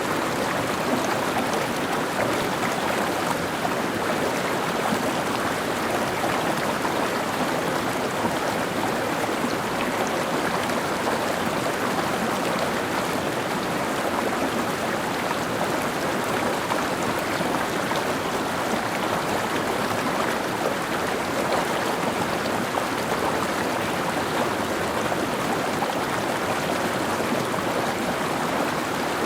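Mountain stream flowing over rocks: a steady, even rushing of water that does not change.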